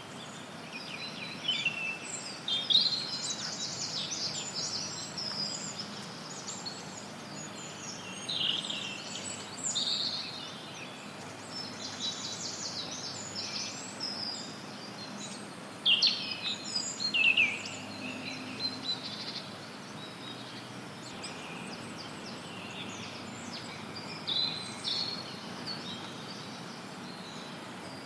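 Songbirds singing and chirping in a forest, in repeated bright phrases, over a steady background hiss of added white noise.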